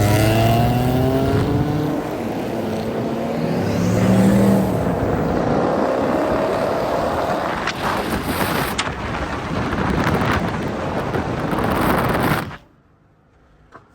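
A car engine accelerating, its note climbing in pitch for several seconds over road noise; the sound cuts off abruptly about twelve and a half seconds in.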